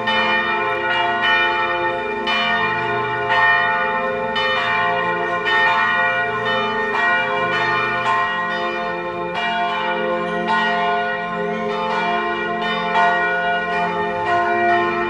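Church bells ringing: irregular strikes, roughly one a second, over a sustained, many-toned ringing.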